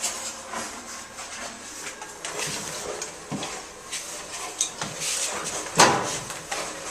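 Dryer-vent cleaning brush and its rod scraping and clattering as it is fed into a plugged dryer vent duct, with a sharp knock about six seconds in.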